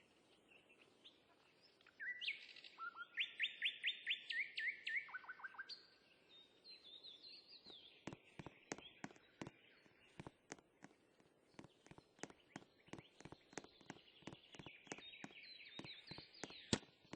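A songbird singing quick runs of repeated whistled notes, loudest about two seconds in, with fainter song later. From about eight seconds on there are irregular sharp clicks or taps, a few each second.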